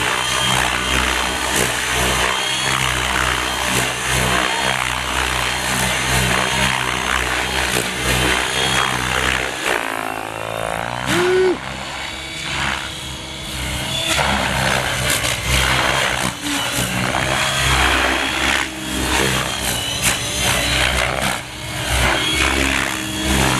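Gaui X7 electric RC helicopter flying aerobatics at low head speed: steady rotor and motor sound, with the pitch gliding briefly about halfway through as the helicopter manoeuvres.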